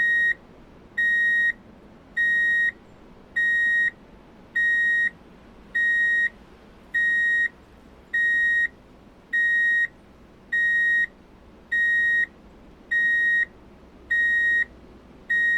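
An electronic beeper sounding one high, steady beep of about half a second, repeated evenly about every 1.2 seconds: the pattern of a truck's reversing alarm.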